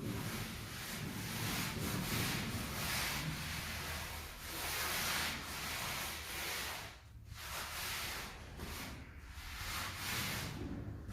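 Repeated rubbing and scraping strokes, roughly one a second with short breaks, of a hand tool smoothing a cement mortar floor bed while its slope is being set.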